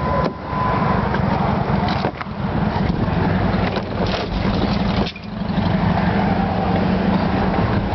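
Steady low rumble of a running vehicle, dipping briefly three times.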